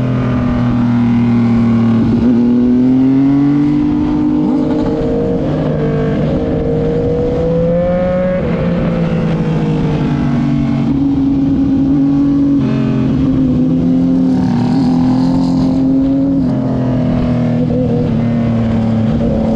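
Multi-cylinder sport motorcycle engine running under way. Its pitch rises and falls, with several sudden drops and steps that sound like gear changes.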